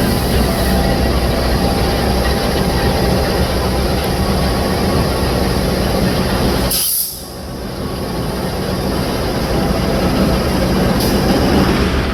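Passenger train running through a curve: a steady rumble of wheels on rail. It drops away abruptly about halfway through, then builds back up.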